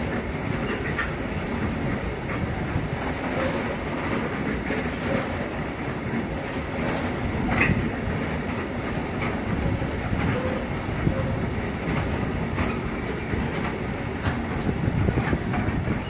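Freight train wagons rolling steadily past over the rails, with irregular clicks from rail joints and brief wheel squeals.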